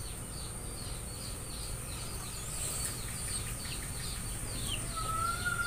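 A small bird chirping over and over in a quick run of short falling notes, about three a second, with a steady high insect whine behind it.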